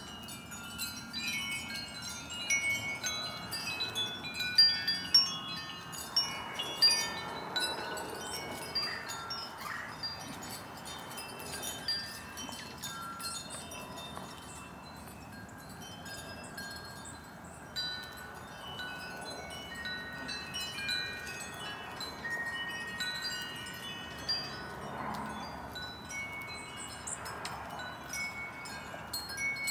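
Wind chimes ringing continually in the breeze, many short bell-like tones overlapping, with a few louder strikes about five to seven seconds in.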